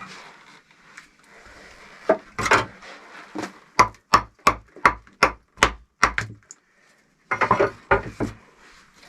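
Wooden knocking: a quick run of about eight blows, a little over two a second, among scattered knocks and scraping.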